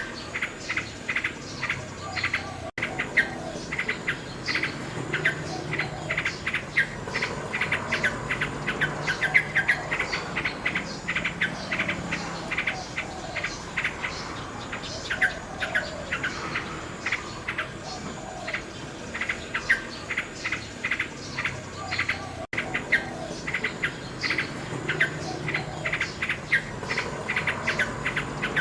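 Common nightingale singing: phrases of rapid repeated notes and chirps.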